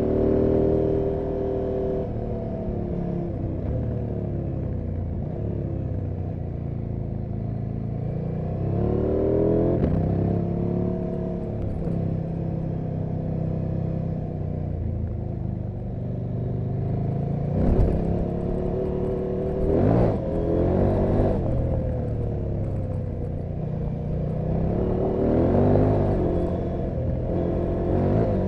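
KTM 790 Adventure R's 799 cc parallel-twin engine and exhaust under way, heard from close to the exhaust: engine pitch rising and falling repeatedly as the bike accelerates and slows, with the sharpest revs about a third of the way in, around two-thirds and near the end.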